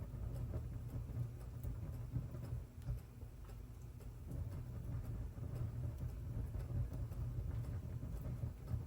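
Wood fire burning in a fireplace: a steady low rumble with faint, irregular crackles.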